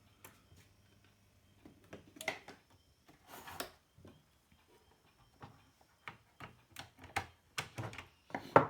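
Irregular clicks and knocks of small tools and parts being handled on a workbench, with a short rustle about three and a half seconds in and a sharp knock near the end.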